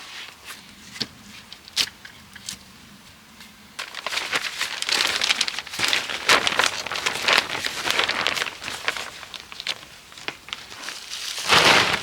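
A few scattered sharp clicks. Then, from about four seconds in, busy rustling and crackling from dry natural material being handled, with a louder burst near the end.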